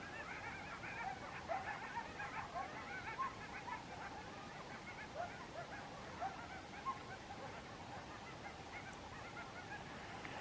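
A large flock of birds calling, many short calls overlapping in a steady chorus.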